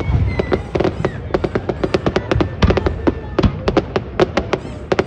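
Fireworks going off in quick succession: a dense string of sharp bangs and crackles, several a second, over a low rumble of booms.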